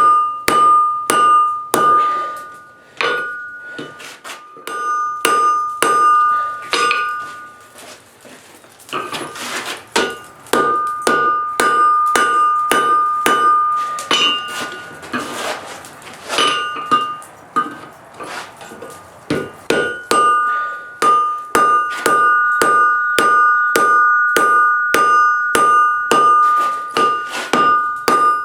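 Blacksmith's hammer forging steel on an anvil: steady blows at about two to three a second, each with a bright anvil ring, broken twice by short pauses.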